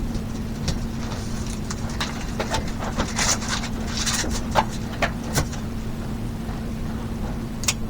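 A steady low hum, with a run of light clicks and knocks about two to five seconds in and one sharp click near the end.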